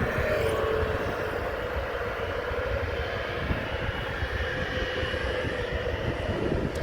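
Jet airliner engines running steadily at a distance, a continuous whine over a low rumble.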